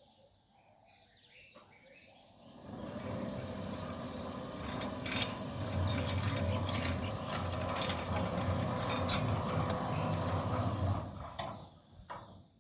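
Centurion D5 Evo sliding gate motor driving a steel sliding gate along its re-welded rack. It starts about two seconds in, runs steadily without hiccups, and dies away near the end as the gate stops.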